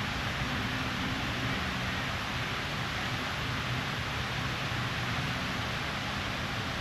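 Steady rushing outdoor noise, like wind on the microphone, with a faint low hum underneath.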